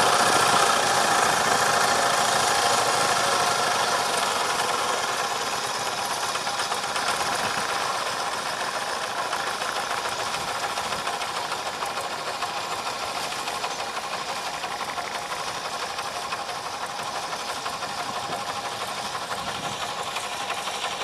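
Tractor diesel engine running steadily, growing somewhat quieter over the first several seconds and then holding at an even level.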